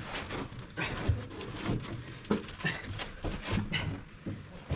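Irregular knocks, bumps and scuffing as a person squeezes down into a narrowboat's cramped engine bay.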